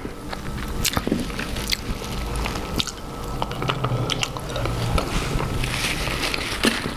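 Close-miked chewing and mouth sounds of someone eating a seafood boil in sauce, with many irregular short clicks.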